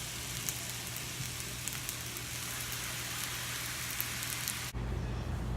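Shrimp fried rice sizzling on a griller, a steady frying hiss with small scattered pops. It cuts off abruptly near the end, leaving a low hum.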